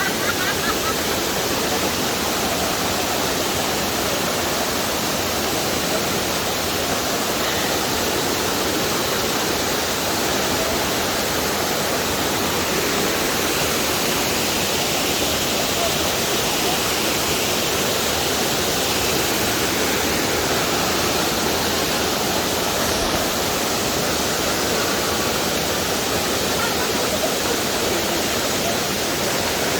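Steady rush of water from a waterfall, an even noise that does not change.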